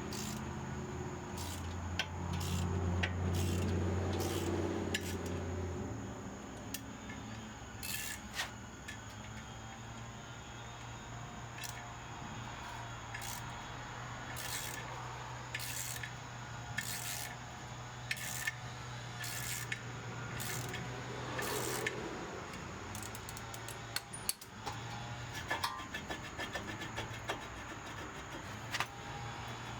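Scattered metal clicks, clinks and rubbing from tools and brake parts being handled, over a low steady hum, with a louder low rumble in the first few seconds.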